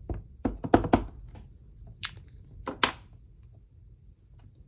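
Light taps and clacks of craft supplies handled on a hard tabletop: a quick cluster about half a second in, then two sharper taps around two and three seconds in.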